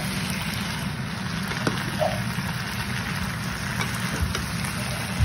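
Rice noodles and vegetables sizzling in a frying pan as they are stir-fried, with a few light scrapes of a plastic spatula. A steady low hum runs underneath.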